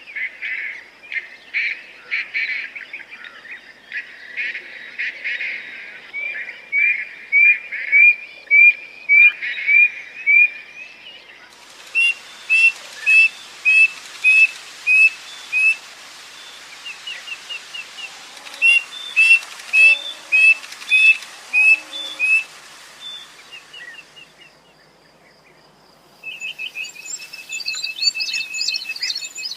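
Quail calling: runs of short whistled call notes repeated about twice a second, after a denser stretch of overlapping calls. A brief lull follows, then a busier, higher chirping near the end.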